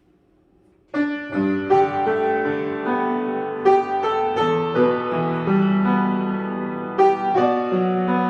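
A piano piece starts about a second in with a struck chord, then continues as a melody of separate notes over held bass notes.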